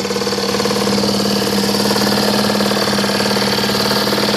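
1972 Sears Ted Williams 5 HP two-stroke outboard motor running steadily in neutral, freshly repaired with a cleaned carburetor and running well.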